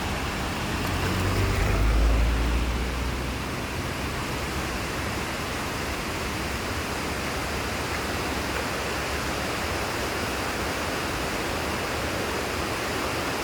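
Steady rushing noise of a Suzuki Jimny driving on a dirt road, with a deep rumble that swells and fades about two seconds in.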